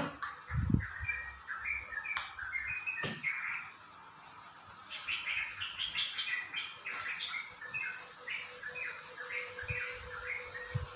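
Small birds chirping in rapid runs of short high notes, in two bouts with a lull around the middle, over a faint steady hum. A low thump sounds just under a second in.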